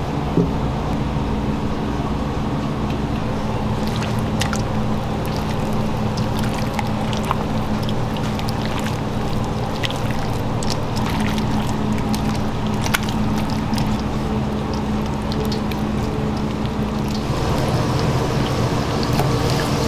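Steady mechanical hum over a watery, pouring or bubbling noise, with scattered light clicks and clatter. It grows a little louder near the end.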